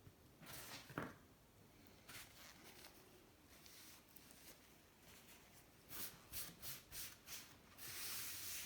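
Faint scraping and handling sounds on the engine case: a click about a second in, then a quick run of short scrapes and a longer one near the end.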